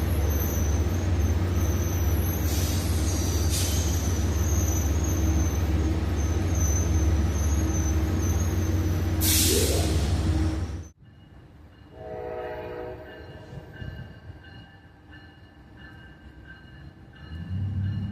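Locomotive running close by: a loud, steady low rumble with a thin high whine over it, and a short hiss of air about ten seconds in. The sound then cuts to a much quieter scene where a horn-like tone sounds briefly.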